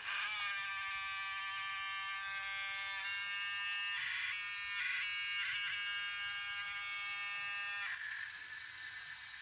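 DJI Spark drone giving off a steady, high buzzing whine that starts abruptly and cuts off near the end, with a few short crackles in the middle. It is the fault noise that the drone makes when tilted to certain angles; the owner wonders whether debris has got inside.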